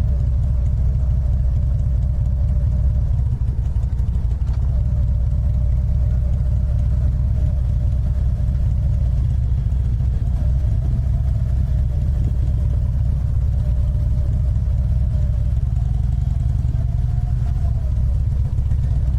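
Harley-Davidson Ultra Limited's V-twin engine running steadily with a deep, even rumble.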